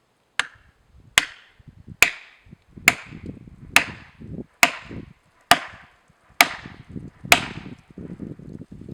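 Nine heavy blows struck on wood, evenly spaced at a little under one a second, each a sharp crack with a brief ringing tail.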